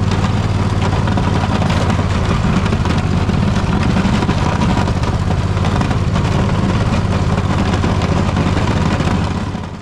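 Poulan riding mower engine running steadily. It fades out near the end.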